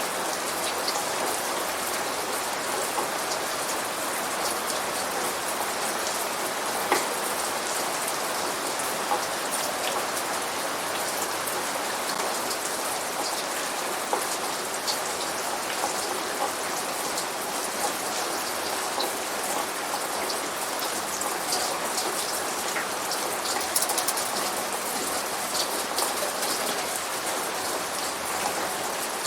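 Steady rain falling on a hard surface: an even hiss with many scattered sharp drop ticks, a few louder ones standing out about seven seconds in and again later.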